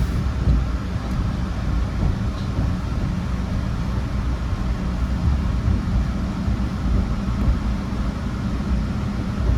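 MBTA Red Line subway train under way between stations, heard from inside the car: a steady low rumble of wheels on the rails and the running gear.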